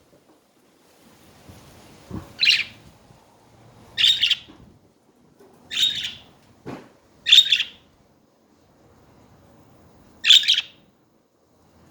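Pet budgerigars chirping in short high calls, five of them spaced a second or two apart, with a soft low knock about two thirds of the way through.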